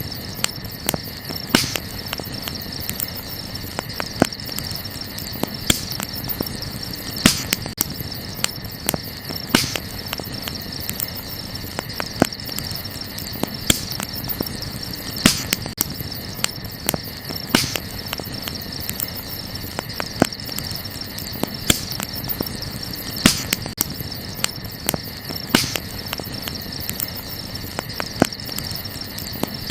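Wood campfire crackling, with frequent small snaps and a sharper pop every couple of seconds, over a low hiss. Crickets chirp in a steady high-pitched trill behind it.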